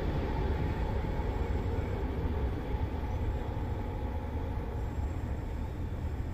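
Airbus A320neo jet engines at takeoff thrust, a steady deep rumble that slowly fades as the airliner climbs away.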